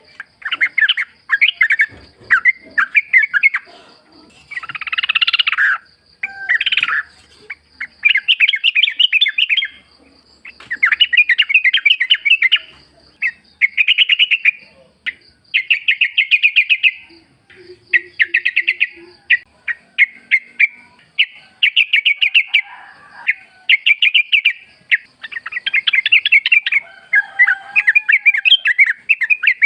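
Yellow-vented bulbul singing in the wild: repeated phrases of rapid, bubbly chattering notes, each lasting a second or two with short pauses between.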